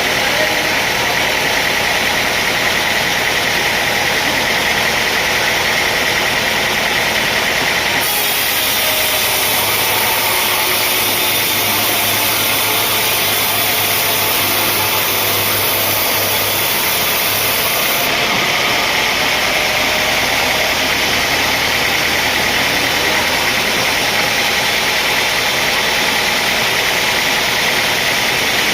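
Heavy machinery with an engine running steadily, a continuous dense mechanical noise. Its character changes abruptly about eight seconds in and again about ten seconds later.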